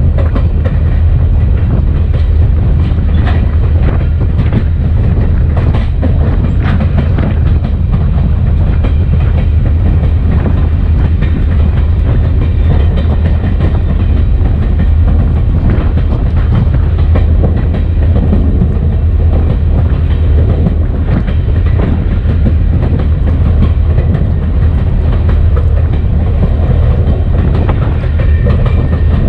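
EMD SD40-2 diesel locomotive running down the track: a loud, steady low rumble with irregular clicks of the wheels over the rail, picked up by a camera mounted outside on the locomotive's short nose.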